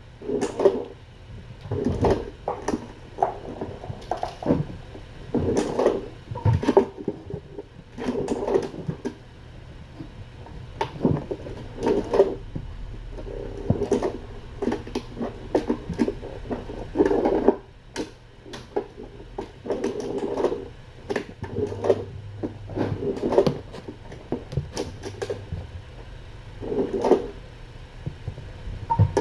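Cat and kittens playing: an irregular run of scuffles, soft thumps and sharp clicks.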